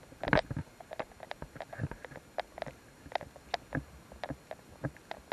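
A run of irregular sharp taps and clicks, several a second, with a louder knock about a third of a second in.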